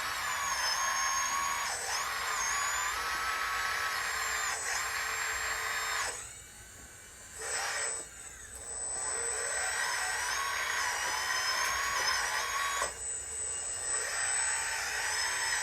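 Electric motors and gear drives of radio-controlled construction models (excavators, dump trucks, loader) whining as the machines work, several high tones rising and falling with the load. The whine drops away briefly twice.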